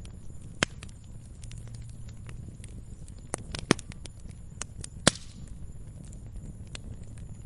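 Wood fire crackling in a fireplace: a steady low rumble of flames with frequent sharp pops and snaps, the loudest about two-thirds of a second in, near the middle, and about five seconds in, the last followed by a brief hiss.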